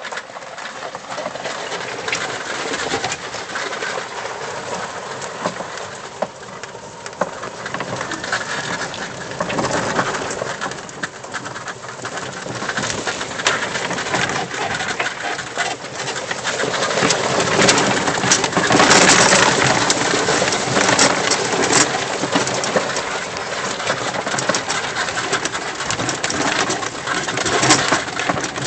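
EZGo golf cart driving over a rough dirt trail, with loose tools, golf balls and other gear rattling and bouncing in the cart: a dense, continuous clatter that gets louder for several seconds past the middle.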